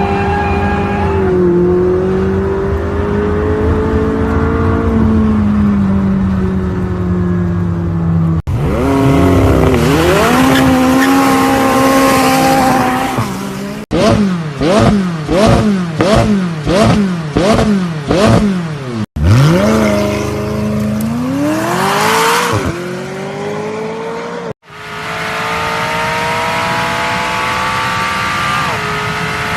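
McLaren 600LT twin-turbo V8 exhaust in a series of abruptly cut takes: the engine running with its pitch sliding up and down, then a quick run of about nine sharp rev blips, each climbing and falling back, then a rev climbing high and settling into steady running.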